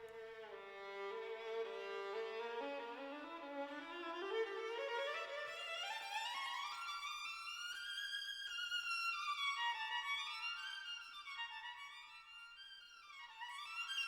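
Background music: a solo violin playing a slow melody that climbs steadily higher over the first half, then sways between high and middle notes.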